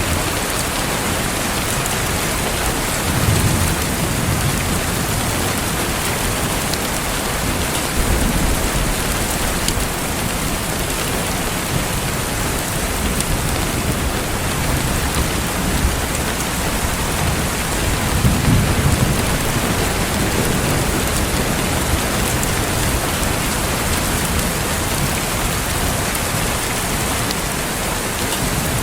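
Steady rain falling, with low rumbles of thunder swelling up about three seconds in, again around eight seconds, and more strongly around eighteen seconds in.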